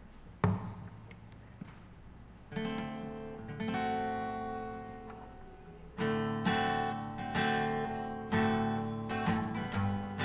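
Acoustic guitar strumming chords: a first chord rings out about two and a half seconds in, and steady strumming starts about six seconds in, the lead-in to a hymn. A single sharp knock comes about half a second in.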